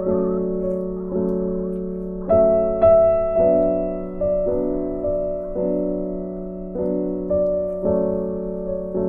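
Background piano music: soft chords struck roughly once a second, each one fading before the next.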